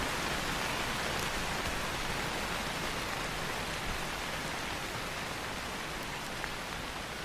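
Steady rain, an even hiss, with a faint tick now and then.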